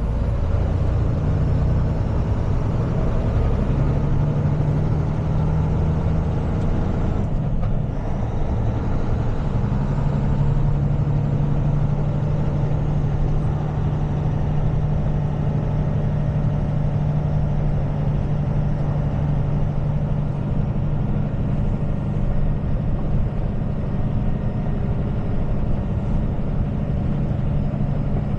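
Tow truck's engine and road noise heard from inside the cab while driving: a steady low drone whose engine note shifts about 4 seconds in and again with a brief dip about 7 and a half seconds in, then holds steady.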